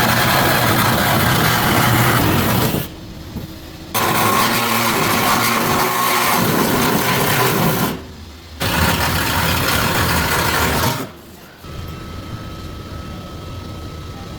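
A power tool running in three long bursts with short pauses about three and eight seconds in, then stopping after about eleven seconds, leaving a quieter steady hum with a thin high tone.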